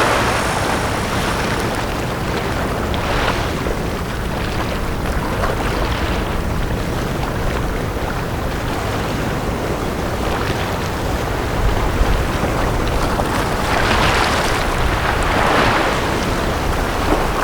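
Small sea waves washing onto a beach: a steady hiss of surf with several swells of wash, the strongest near the end, over a low rumble.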